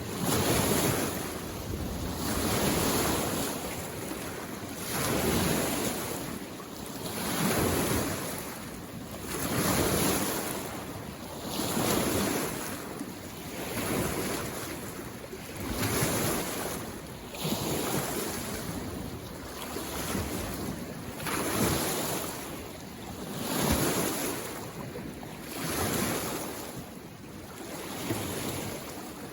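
Small waves on a mountain lake washing in, one about every two and a half seconds, each a soft swell of rushing water that fades before the next.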